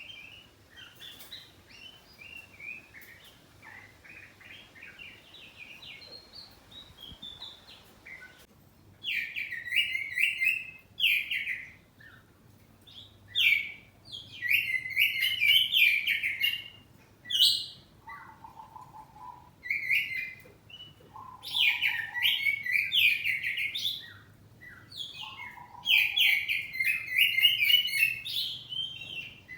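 Caged oriental magpie-robin (kacer poci) singing: soft warbling at first, then from about eight seconds in, loud, rapid, varied song phrases in bursts separated by short pauses.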